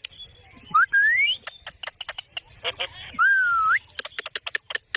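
Pet green parrot whistling twice amid a run of quick sharp clicks. The first whistle rises about a second in; the second dips and then rises steeply past the three-second mark.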